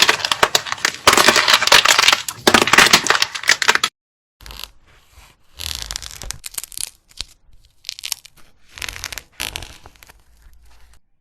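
Loud, dense crunching and crackling of a brittle material being crushed for about four seconds. After a short break it is followed by softer bursts of crackly crunching.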